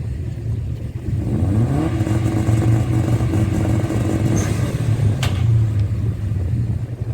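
Rotary-engined drag car running, its engine note climbing about a second in and then holding steady for a few seconds. A single sharp click near the end.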